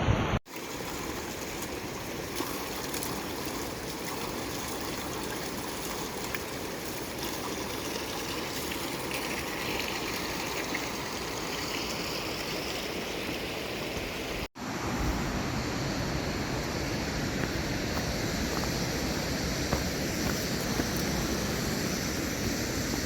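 Stream water running steadily, broken by two brief dropouts, one near the start and one about fourteen and a half seconds in.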